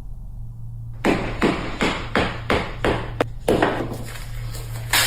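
A run of about ten sharp knocks, roughly two to three a second, starting about a second in, over a steady low hum.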